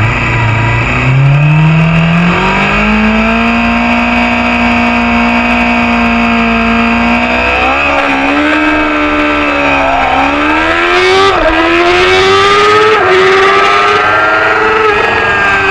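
Racing motorcycle engine under hard acceleration, its note climbing in steps as it shifts up, then holding at high revs. Past the middle the revs drop as it brakes and shifts down, then climb again through more upshifts before easing off near the end.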